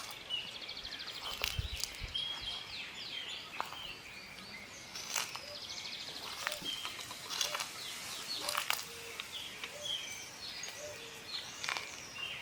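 Small birds chirping and trilling throughout, with scattered sharp clicks now and then.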